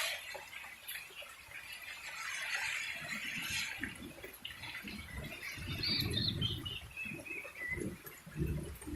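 A bird calling: a quick run of notes falling in pitch, about six seconds in, over low rumbling.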